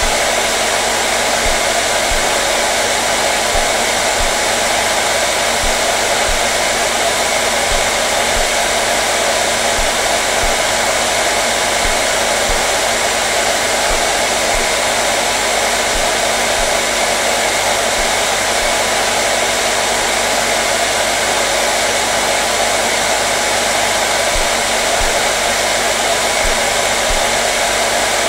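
Hair dryer running continuously: a steady, unchanging blowing rush with a faint motor hum, used as white noise.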